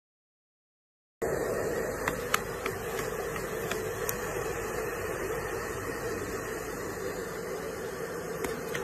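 Hair dryer running steadily, blowing air on a wet cat: an even rushing whir with a constant hum, starting about a second in.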